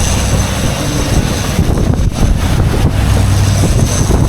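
Boat motor running steadily, with wind rumbling on the microphone and water rushing past the hull.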